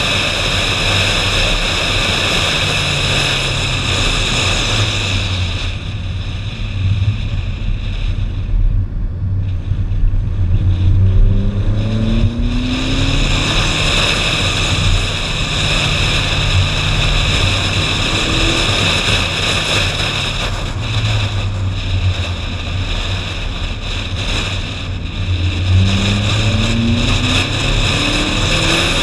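Ferrari 458 Spider's V8 engine running under heavy wind noise on an outside-mounted GoPro, the engine note rising twice as the car accelerates, once in the middle and again near the end.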